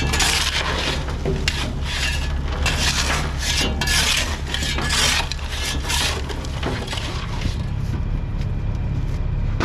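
Repeated scraping and crunching of loose asphalt millings and chunks being worked loose, about one stroke a second, over a steady low engine hum. The scraping eases off about seven seconds in.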